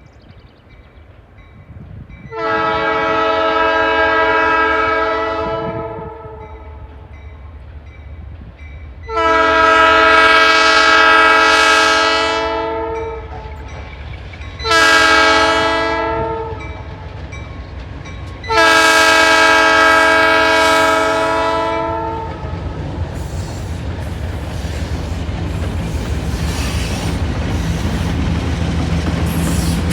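Diesel locomotive air horn blowing the grade-crossing signal: two long blasts, a short one, then a final long one. The locomotive then comes closer, its engine rumbling and the wheels clicking over rail joints, louder toward the end.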